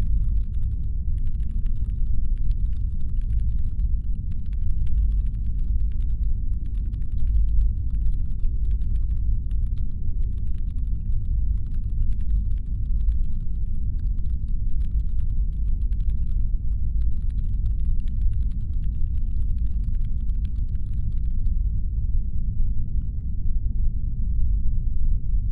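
Deep, steady brown-noise rumble standing in for a spaceship's engine hum. Over it comes a faint, fast patter of clicks that stops about 21 seconds in.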